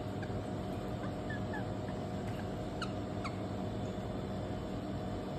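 A few short, faint falling chirps from a bird, the clearest two about three seconds in, over a steady background hum.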